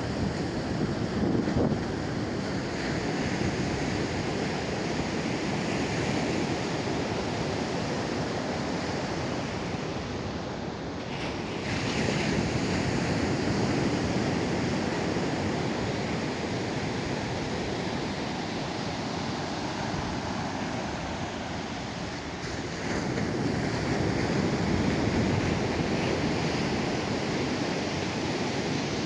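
Atlantic surf washing on the beach as a steady rush, swelling louder about every eleven seconds as waves break, with some wind on the microphone.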